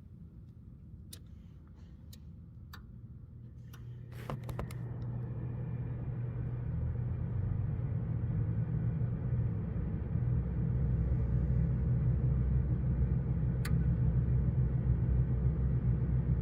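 Friedrich PTAC through-wall air conditioner starting up. A few light clicks come first. About four seconds in, a low hum comes on and grows louder over several seconds, then runs steadily as the compressor runs.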